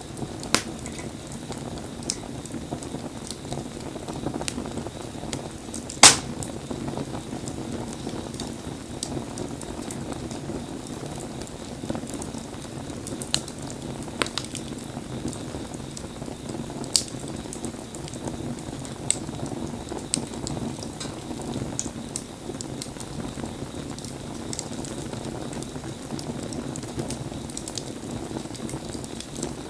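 Wood fire burning, with a steady low rush and scattered sharp crackles and pops; the loudest pop comes about six seconds in.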